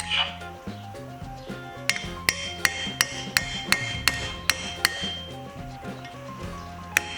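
Metal chisel being hammered against a brake caliper to drive out a stuck, torn piston dust seal: sharp taps about three a second with a ringing metallic note, stopping for a couple of seconds in the middle, over background music.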